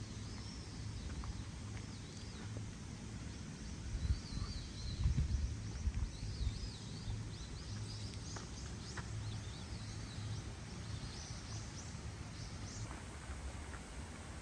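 Small birds calling in short warbling phrases again and again, over a steady low rumble that grows louder for a couple of seconds about four seconds in.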